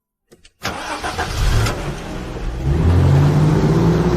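A car engine starts about half a second in, then runs and speeds up, its pitch rising.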